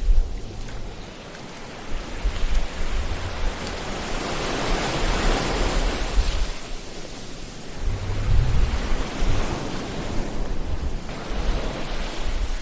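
Ocean waves breaking and washing on a shore, the surf swelling and ebbing with surges about four to six seconds in and again around eight to ten seconds, over a low gusty rumble.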